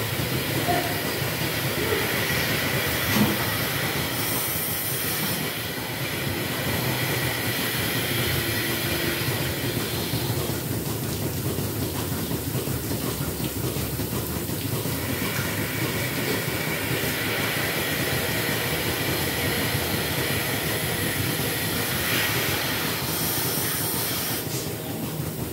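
Dairy milking-shed machinery running steadily, a continuous mechanical rumble with a hiss over it.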